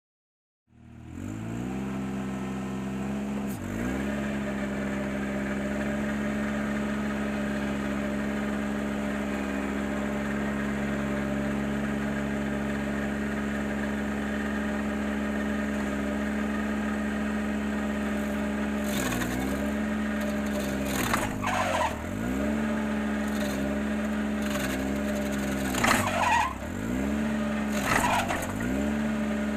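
Ventrac 4520Z compact tractor engine running steadily, driving a KC180 stump grinder attachment. In the second half the engine note sags and recovers several times, with bursts of crackling, as the cutter wheel takes load chewing into the stump.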